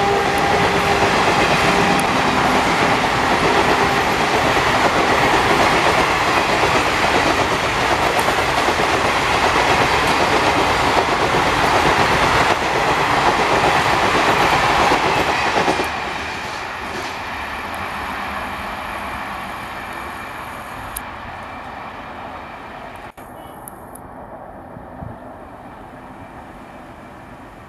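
Indian Railways express train passing at speed, its wheels running over the rails, with a locomotive horn note dying away in the first couple of seconds. About halfway through, the noise drops suddenly as the end of the train goes by, and the rumble then fades as it moves away.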